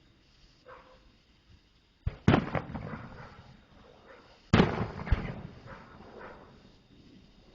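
Aerial fireworks bursting overhead: two loud booms about two and a half seconds apart, each followed by a spatter of crackles that dies away.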